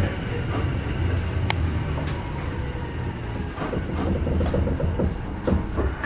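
Kintetsu 2610 series electric train car standing at a station with its doors open: a steady low hum from its onboard equipment, with a few sharp clicks and light knocks.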